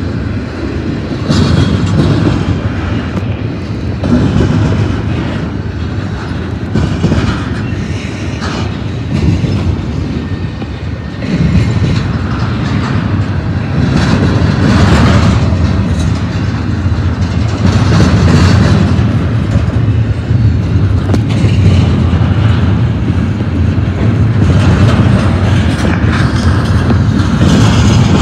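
Double-stack freight train's well cars rolling past close by: a steady, loud rumble of steel wheels on the rail with repeated clacks as the wheel sets go by, growing louder about halfway through.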